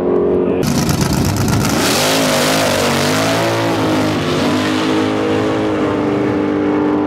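Two classic drag cars launching side by side at full throttle: a loud rush of engine noise off the line, then engine pitch rising and falling through the gear changes, settling into a steady note as the cars run away down the strip.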